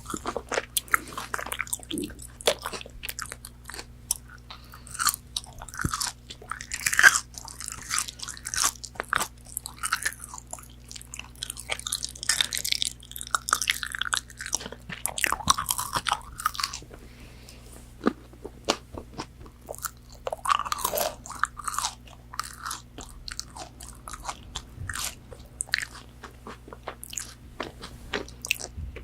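Close-miked eating of McDonald's chicken nuggets: crisp crunchy bites of the fried breading and wet chewing, in irregular clusters of crackles.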